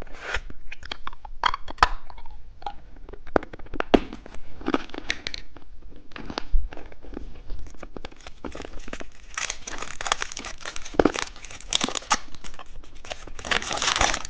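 Crinkling and tearing of a plastic candy wrapper as a pack of eyeball gummy candy is opened: an uneven run of rustles and sharp crackles, busiest in the last few seconds.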